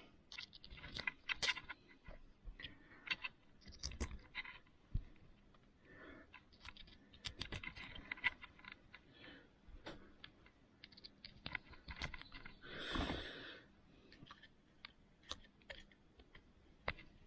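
Scattered small clicks and taps of a servo's small plastic and metal parts being handled and fitted back together by hand, with a brief scraping rustle about two-thirds of the way through.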